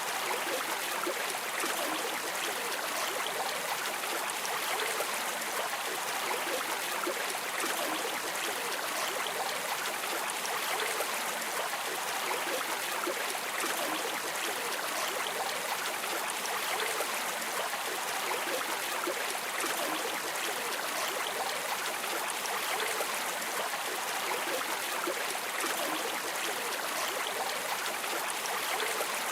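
Steady rushing of a flowing stream, water streaming over rocks.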